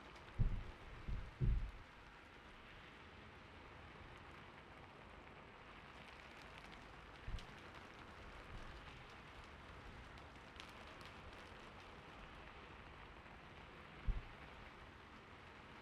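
Steady gentle rain sound, with a few short, soft low thumps: three in the first couple of seconds, one around the middle and one near the end.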